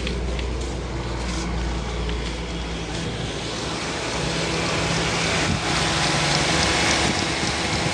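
Toyota Corolla engine idling steadily, a continuous low hum that gets slightly louder partway through. The AC is switched on, but the compressor is not engaging, so the engine runs without compressor load.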